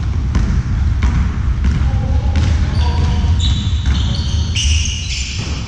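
A ball bouncing repeatedly on an indoor court floor, with shoes squeaking sharply on the floor from about halfway through, over a low rumble of hall noise.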